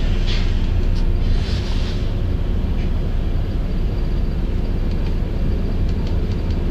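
Volvo B9TL double-decker bus heard from the top deck while under way: a steady low drone of engine and road noise, with a hiss in the first couple of seconds that fades out.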